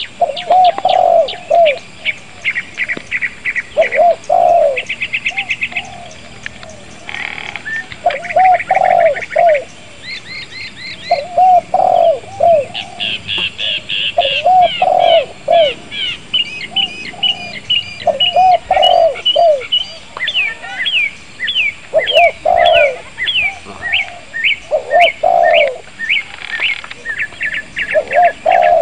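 Birds calling: repeated low, dove-like coos every few seconds over rapid high-pitched chirping and trilled song.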